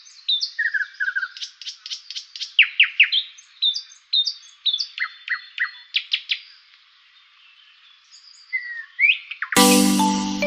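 Bird song: a quick series of varied chirps, whistles and fast sweeping notes that thins out around seven seconds in and picks up briefly again. About nine and a half seconds in, loud chiming music starts.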